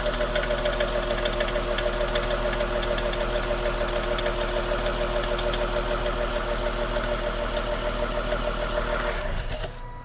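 2016 Lexus GS350's 3.5-litre V6 idling with a strange fast, rhythmic pulsing noise over the engine, which the owner takes for the vacuum pump. The sound cuts off near the end.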